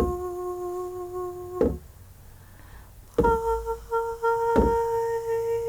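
A long steady held note ends about two seconds in. After a short pause, a higher steady note begins and holds, with a few soft thumps underneath.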